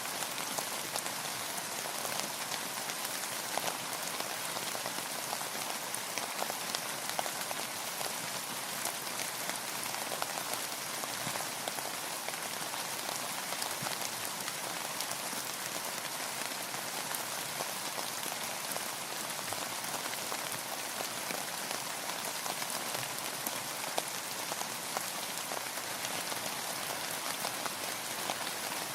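Steady rain falling, with many small crisp drop ticks over an even hiss.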